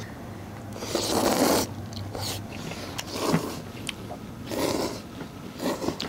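People slurping spicy knife-cut noodles (jang-kalguksu) from metal bowls: several short, noisy slurps, the loudest about a second in, with a few light clinks of utensils on the bowls.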